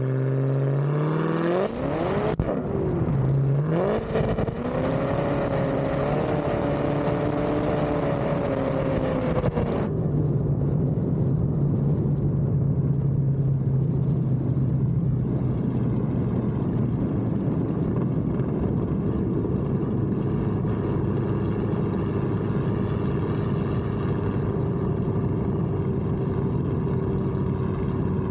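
Car engine accelerating hard, its pitch climbing, dropping at a gear change about two seconds in and climbing again, then holding. From about ten seconds it settles into a lower, steady drone as the car cruises.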